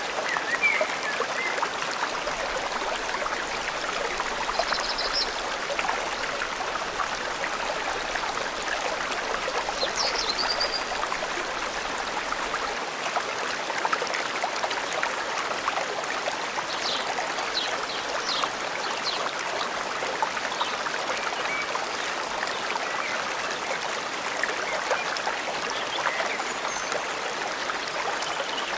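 Water of a forest stream rushing and trickling steadily, with a few short bird chirps and trills now and then over it.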